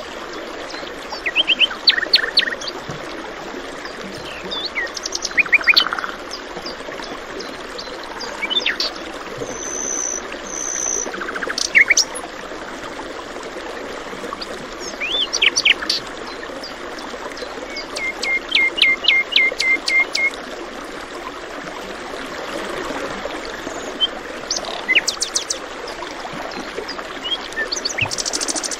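Songbirds chirping and calling over steadily running stream water. The calls are short chirps and high whistles, with a quick run of repeated notes past the middle.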